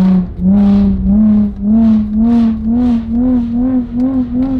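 Car engine revved in a series of throttle blips, each a short rise and fall in pitch, coming quicker and shorter toward the end.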